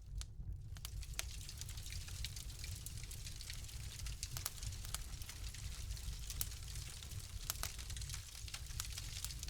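Wood fire crackling: frequent sharp pops and snaps, irregularly spaced, over a steady low rumble.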